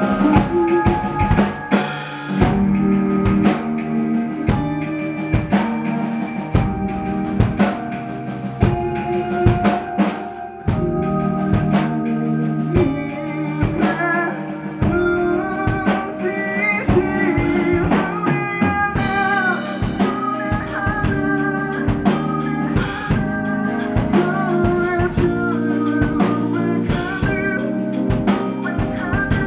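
Live indie band playing a song, with a drum kit's kick, snare and rim hits driving the beat under sustained pitched instruments. About halfway through, a wavering melody line comes in over the top.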